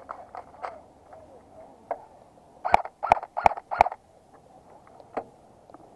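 Four airsoft gun shots fired in quick succession, about a third of a second apart, each a sharp crack, with a few fainter clicks and rustles around them.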